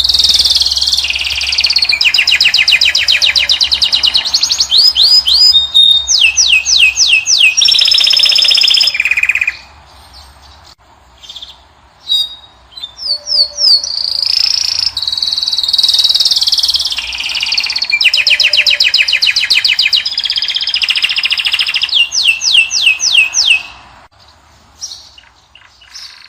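European goldfinch singing: long runs of fast twittering trills and repeated high notes in two bursts, with a pause of a few seconds in the middle broken by scattered single notes.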